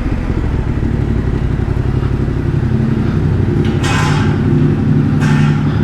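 Yamaha Ténéré 700's parallel-twin engine running at low speed, with two short bursts of hiss about four and five seconds in.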